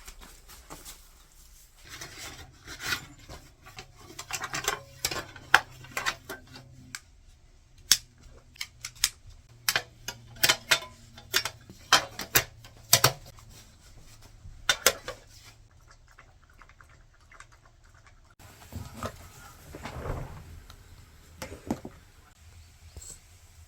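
A quick run of sharp clicks and light clatter, like small objects being handled, over a low steady hum for about the first fifteen seconds; softer scattered sounds follow near the end.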